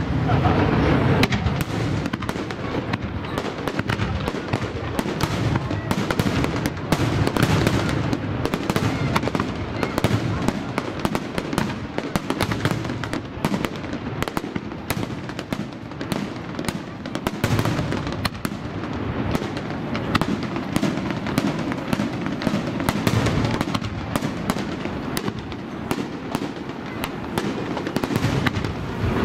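Aerial fireworks display: shells bursting overhead in a dense, unbroken string of sharp cracks and bangs, many to the second.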